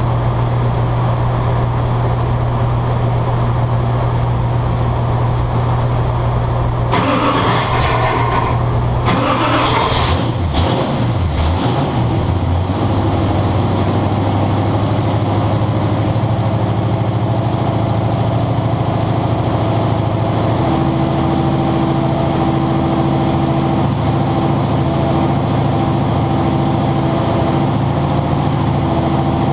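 Ford 460 big-block V8 running loud and steady on an engine dyno, with a rougher, noisier stretch about seven to twelve seconds in.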